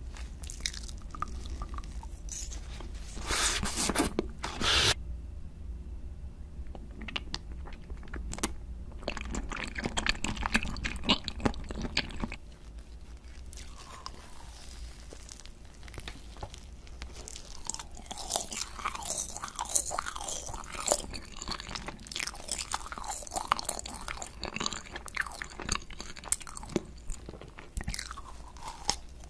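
A person biting into and chewing food. Loud, crisp crunches come about three to five seconds in and again around nine to twelve seconds, then softer, wetter chewing with mouth clicks runs through the rest.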